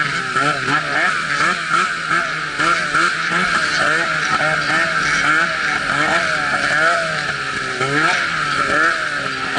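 Arctic Cat snowmobile engine revving up and down over and over, about twice a second, over a steady hiss.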